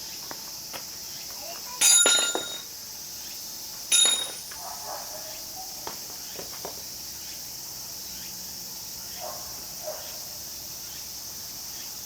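Two sharp metallic clanks about two seconds apart, each ringing briefly, over a steady chirring of insects.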